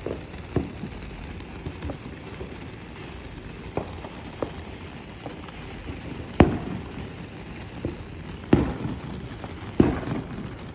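A ground firework going off with irregular sharp pops and cracks, a few small ones early and three loud cracks in the second half.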